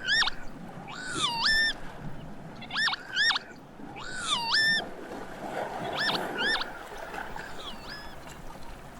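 Northern lapwings calling: short slurred cries that dip and then rise in pitch, about eight of them in twos and threes, growing fainter near the end.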